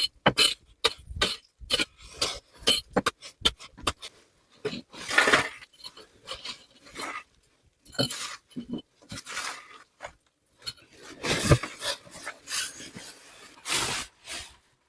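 Irregular handling noises: a run of sharp clicks, clinks and knocks with a few longer scrapes mixed in.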